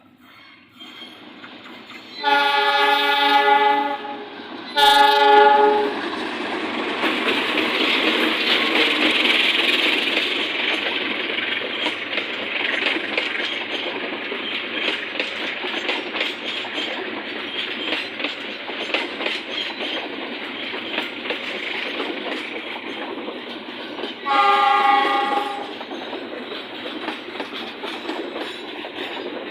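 A passing train's horn sounds two loud blasts, about 2 and 5 seconds in. The train then runs by with a steady rumble and wheel clatter over the rail joints, and the horn sounds once more about 24 seconds in.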